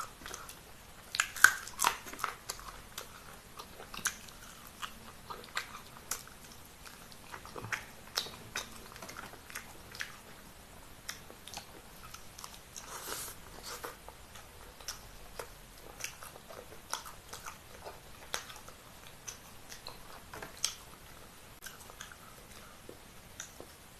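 A person biting and chewing grilled chicken eaten by hand, with irregular short wet clicks and smacks; the loudest bites come a second or two in.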